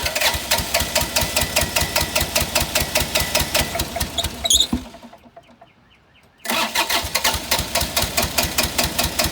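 Bobcat 328 mini excavator's diesel engine cranking over on the starter with an even, rhythmic chug. It stops about four and a half seconds in and is cranked again about six and a half seconds in.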